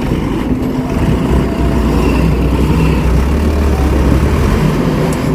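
Heavy truck or tractor engines running hard under load, a deep rumble that swells about a second and a half in and eases near the end, as the vehicles strain to pull and push a truck stuck in mud.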